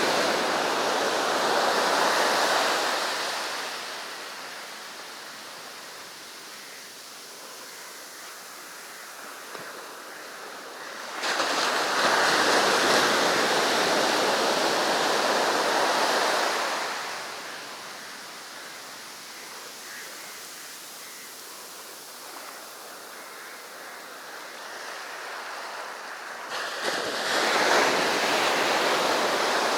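Sea surf breaking on a beach in three surges: one at the start, one rising suddenly about eleven seconds in, and one near the end, with a softer wash of water in between.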